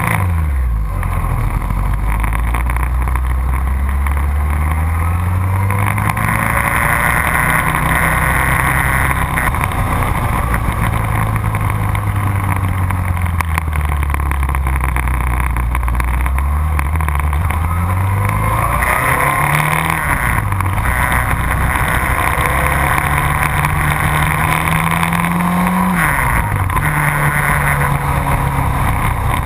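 Sport motorcycle engine on a race track, its note climbing and falling again and again as the bike accelerates and slows, with a sharp drop in revs about 26 seconds in. Heavy wind rush runs under the engine throughout.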